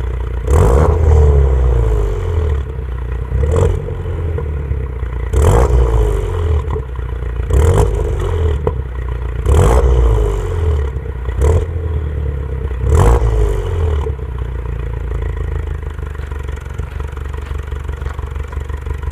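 Peugeot 208 GTi's 1.6 turbo four-cylinder, with a decat downpipe and resonator-delete mid pipe on the stock rear silencer, revved in about seven short blips, each marked by a sharp crack and the revs falling away. About 14 seconds in it settles to a steady idle.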